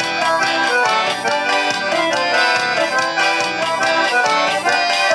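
Forró music from a band: an accordion plays the melody over a steady, quick percussion beat, with no singing.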